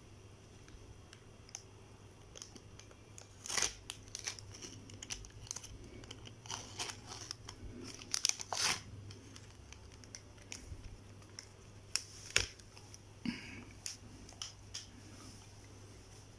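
Plastic food packaging being torn open and crinkled by hand: irregular rustles, rips and clicks, the loudest bunched in the first half.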